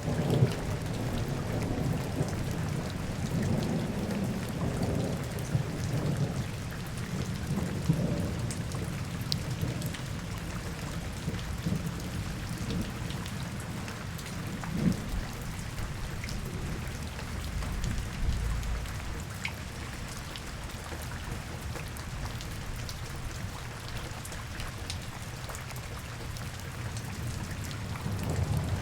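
Steady rain falling, with a low rumble underneath that swells in the first few seconds and again near the end, and scattered faint drips and ticks.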